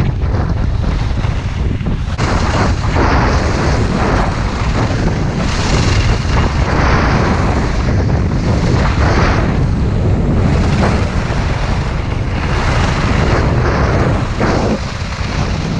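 Strong wind buffeting the microphone, a loud, heavy rumble that swells and eases in gusts.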